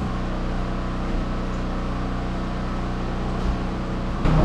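An engine running steadily at an even speed: a constant low drone. Louder, irregular noise breaks in just before the end.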